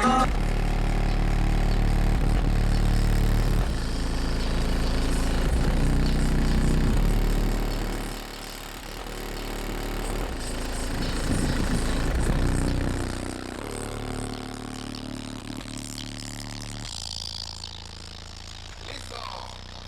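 A pickup truck's car audio system playing music with heavy subwoofer bass. Deep bass notes hold and change every second or two, and it gets quieter after about eight seconds.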